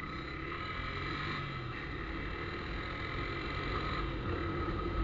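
Vehicle engine idling steadily through a newly fitted exhaust, a low, even rumble with no pops or revs.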